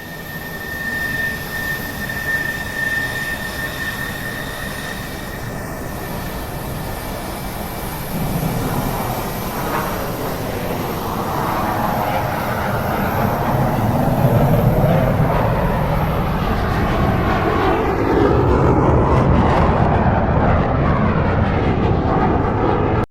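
Airplane engines: a steady high-pitched whine at first, then a swelling roar with a sweeping, phasing quality that grows louder toward the end and cuts off suddenly.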